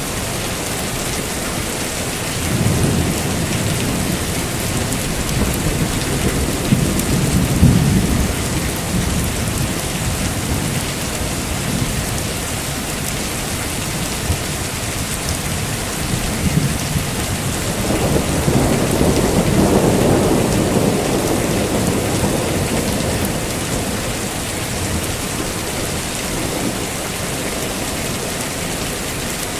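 Steady heavy rain with two rolls of thunder: one rumbling from about three seconds in to about eight, and a second, broader one from about eighteen to twenty-two seconds in.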